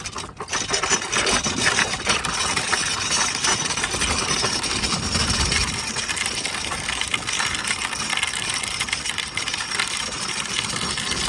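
Bike tyres rolling over a rough dirt road: a steady crunching, rattling noise that keeps on without a break.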